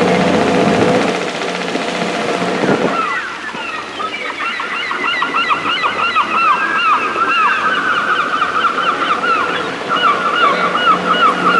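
A flock of seagulls calling: many short rising-and-falling calls overlapping densely from about three seconds in. Before that a steady engine hum, which drops away as the calls begin.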